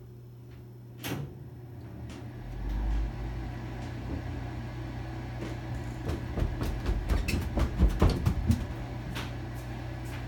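Amana 95 IIQ gas furnace's inducer motor starting at the beginning of the heating cycle: a click about a second in, then the motor spins up into a steady low hum. From about six to eight seconds in there is a spell of irregular knocking and rattling.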